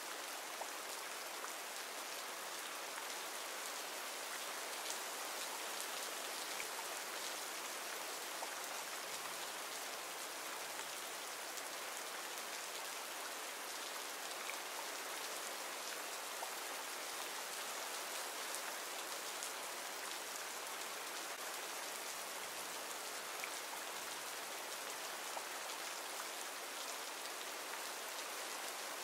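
Recorded rain ambience: steady rainfall as an even hiss, with a few faint ticks of single drops.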